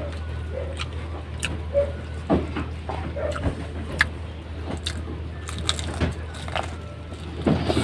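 Close-up eating sounds of breaded fried chicken katsu being bitten and chewed: irregular sharp crunches and crackles with soft mouth sounds between them, over a steady low hum.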